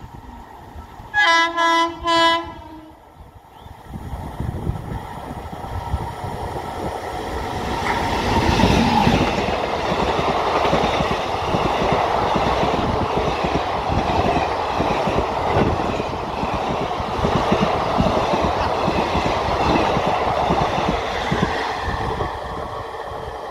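WAG-9HC electric locomotive sounding its horn twice, a longer blast then a short one. Then the locomotive and its passenger coaches pass at about 100 km/h: a rising loud roar with rapid wheel clatter that eases off near the end as the last coach goes by.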